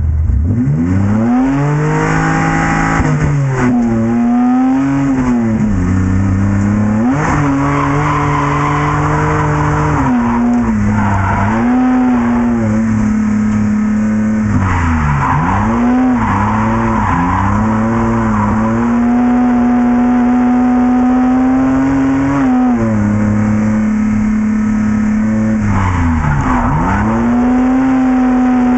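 BMW E30 drift car's engine revving high and dropping again and again as the car slides through corners, with tyres squealing.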